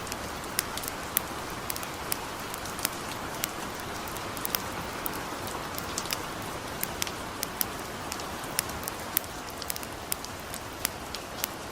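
Light rain falling steadily, with irregular sharp crackles and pops from a wood campfire, several a second.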